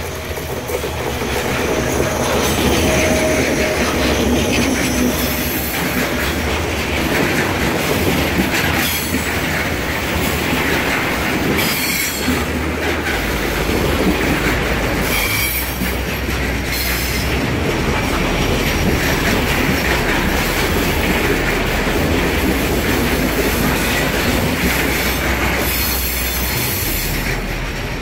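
A container freight train hauled by an electric locomotive passes close by: steady loud rolling noise of the loaded container wagons' wheels on the rails, with a few brief bursts of high-pitched wheel squeal.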